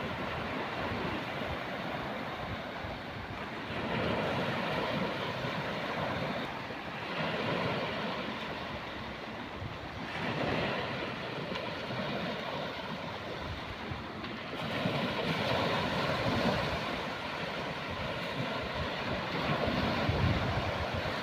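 Sea waves washing onto a beach, the surf swelling and falling back every few seconds, with wind on the microphone.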